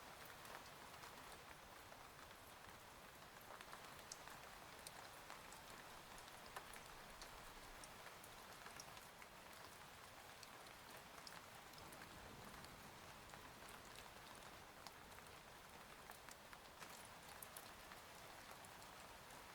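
Faint, steady rain ambience with scattered sharp ticks of individual drops, the rain-on-a-cabin-window bed of the soundtrack.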